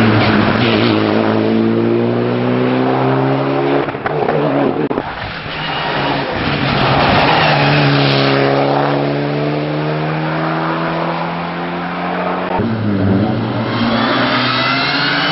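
Mitsubishi Lancer Evolution IX rally car's turbocharged four-cylinder engine at full throttle as the car passes at speed, in successive clips. In each pass the engine note falls steadily in pitch. Near the end a new clip starts with the engine revving up.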